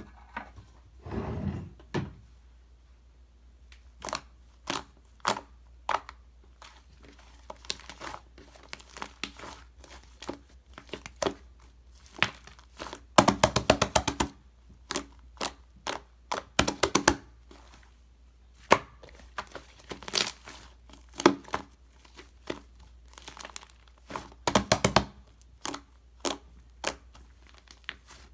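Mixed slime being squished and stretched by hand, giving irregular sticky clicks and small pops, with a quick run of crackling pops about halfway through.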